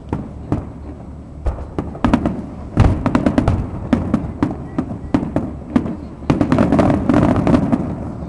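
Fireworks display: aerial shells going off in many sharp bangs and rapid crackles. They come in two dense clusters, one about two seconds in and one about six seconds in, over a low rumble.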